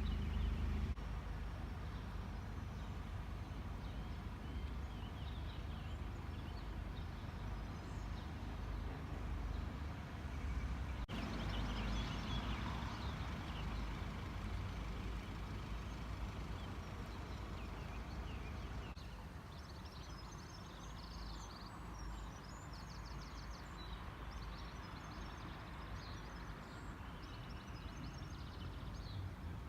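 Steady low rumble of vehicles running, with birds chirping over it in the second half.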